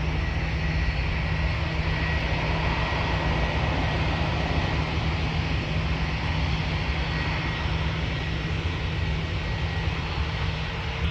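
Twin jet engines of a TUI Boeing 787 Dreamliner at takeoff power as it departs, a steady rush of engine noise and low rumble with a faint constant whine.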